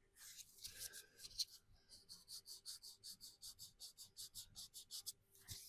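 Faint, quick back-and-forth rubbing of an abrasive Scotch-Brite pad by hand on the primed steel body panel of a VW T25 van, the strokes coming evenly several times a second. The pad is cutting back the primer to flatten it.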